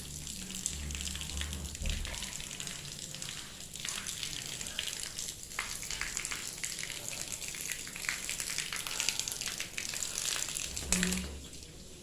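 Dense, steady pattering hiss of ash rain falling, with a low hum underneath at times. A sharp knock comes near the end, and after it the patter drops away.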